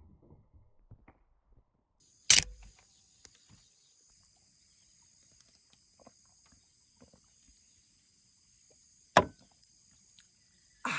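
Insects buzzing in a steady high drone, starting about two seconds in. Two sharp knocks fall over it, one early and one near the end.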